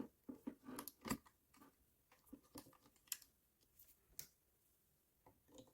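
Faint, irregular clicks and light taps, about a dozen spread over a few seconds, from small parts being handled during an electric fan repair.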